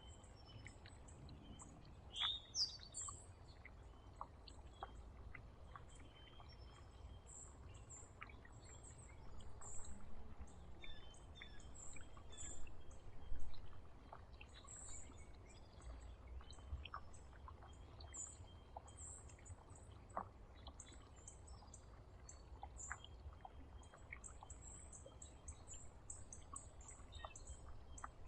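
Small songbirds chirping at a feeder: a steady scatter of short, thin, high chirps, with a louder falling call about two seconds in. Faint clicks are scattered among them over a low outdoor rumble.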